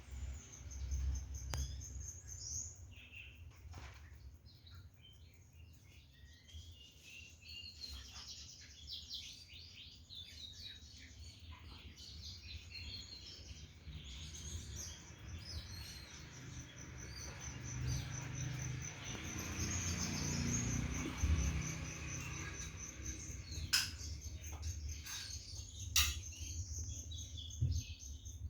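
Several songbirds chirping and singing, with a high, rapid trill running through much of it and a low rumble underneath.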